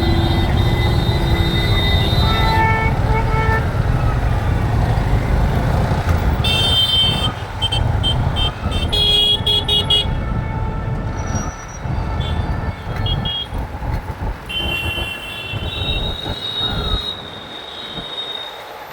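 Road traffic heard from a moving motorbike: a steady rumble of engine and road noise with vehicle horns honking again and again, some held for a second or two and some in short quick beeps. The rumble eases near the end.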